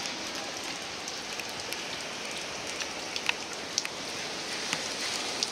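Steady rain falling, with a few sharp ticks of drops landing close by.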